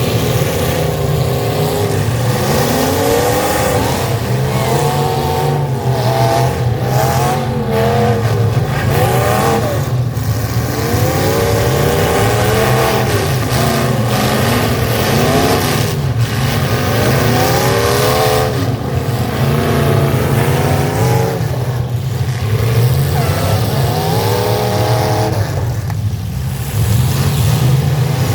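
Several full-size pickup trucks' engines revving hard and dropping back again and again in a demolition derby. Several sharp bangs of trucks colliding break in.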